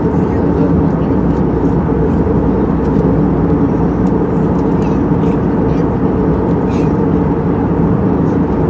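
Steady drone of a passenger airliner's engines and rushing air heard inside the cabin during landing, loud and unchanging.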